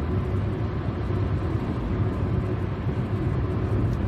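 Steady low rumble, even and unbroken, with no distinct events.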